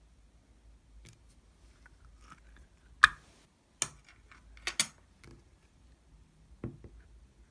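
A few sharp clicks and knocks against a quiet background: one loud click about three seconds in, then several more, including a quick pair, over the next few seconds.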